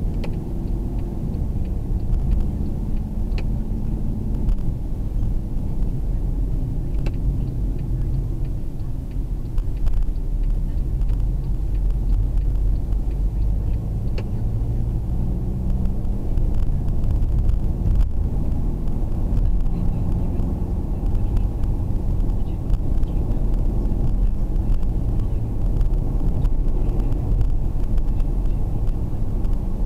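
Steady low rumble of a car's engine and road noise, heard muffled from inside the taxi's cabin.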